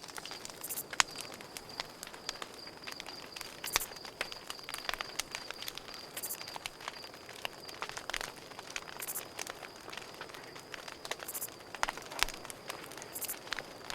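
Campfire crackling with frequent sharp pops, over a steady high cricket trill. Brief high buzzes come every few seconds.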